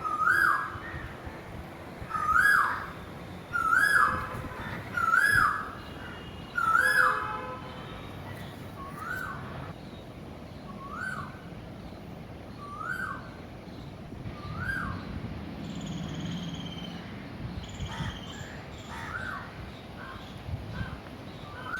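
A bird calling over and over, about one short rising-then-falling call a second. The calls are loud for the first several seconds, then go on more faintly.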